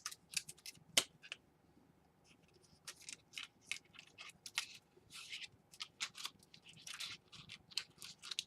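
Irregular small clicks and scratchy ticks of plastic laptop parts being handled and fitted during a keyboard replacement, with one sharper click about a second in.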